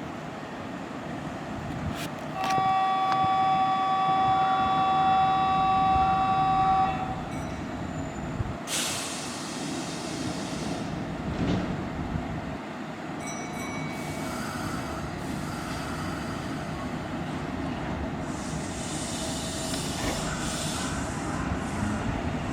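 Kintetsu Minami-Osaka Line electric train sounding a steady two-tone horn for about four and a half seconds, then running through the station with rail rumble and bursts of hiss.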